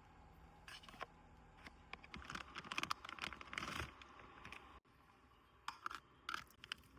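Irregular rustling and small clicks of something being handled close to the microphone, in two spells with a short pause between them.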